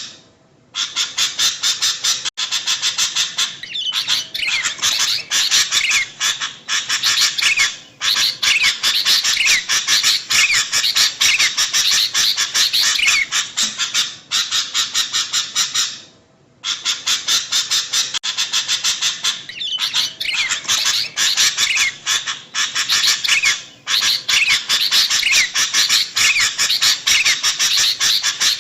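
Sooty-headed bulbuls (kutilang) calling noisily: a dense, rapid chatter of short notes, broken by a brief gap about half a second in and again about halfway through.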